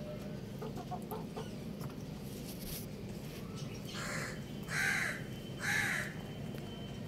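A bird gives three short calls a little under a second apart, starting about four seconds in; the second and third are the loudest. A few faint light ticks come earlier.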